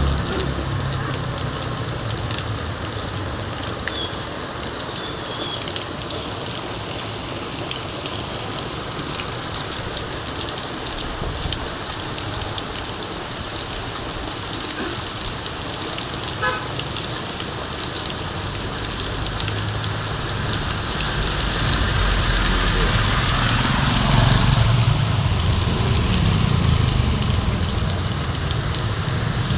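Heavy rain falling steadily. A motor vehicle's engine grows louder over the last third as it approaches on the wet road.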